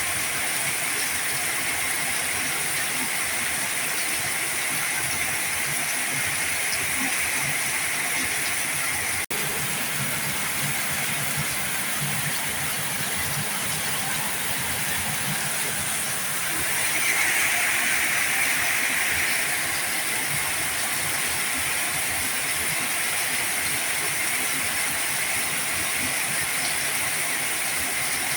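Heavy rain falling in a steady, dense hiss, swelling louder for about two seconds a little past the middle. A split-second gap breaks the sound about a third of the way in.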